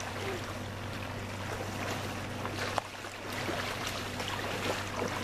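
Steady low drone of motorboat engines out on the lake, with one short sharp click a little past the middle.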